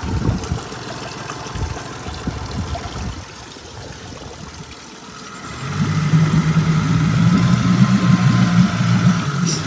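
Yamaha F30 four-stroke outboard motor running: an uneven low rumble at first, then about six seconds in a louder, steady engine note that holds as the engine picks up.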